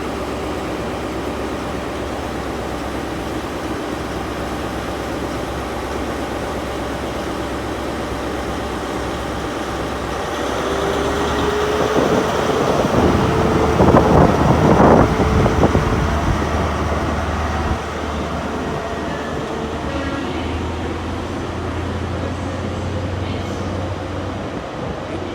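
Class 43 HST power car diesel engine on a departing Castle-set train: a steady engine drone that grows louder from about ten seconds in and is loudest around thirteen to sixteen seconds, with a steady whine riding over it, then settles back to a lower drone.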